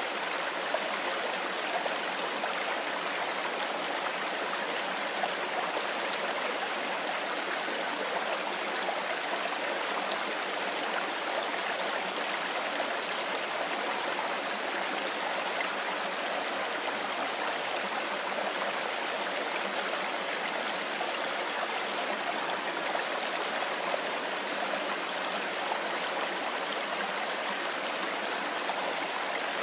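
Mountain river running: a steady, even rush of flowing water.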